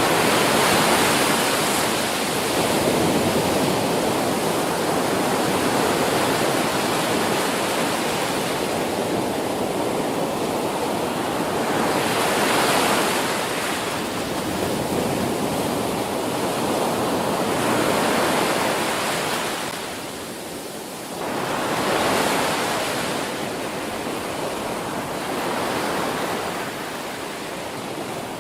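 Ocean surf: a continuous rush of waves breaking on the shore, swelling as each wave crashes and easing between them every few seconds.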